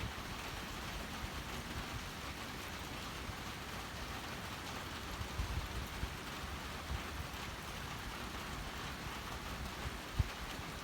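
Steady rain falling, an even hiss, with a few low gusts of wind and a short sharp knock about ten seconds in.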